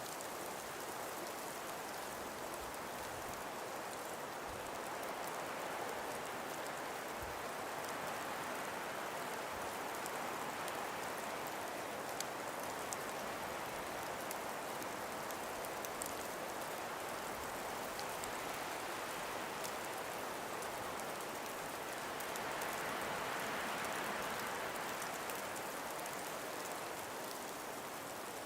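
Calm winter breeze through ice-coated forest trees: a steady hiss that swells gently twice, with a few faint scattered ticks.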